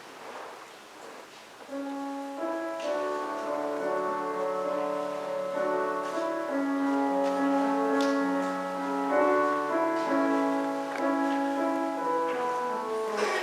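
Church organ playing held chords, an instrumental introduction that comes in about two seconds in after a short quiet pause.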